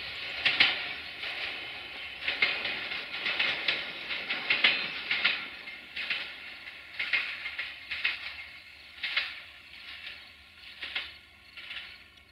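Bombardier Talent diesel multiple unit running away on curving track: its wheels hiss on the rails and clack over rail joints and points at uneven intervals, growing fainter as the train draws off.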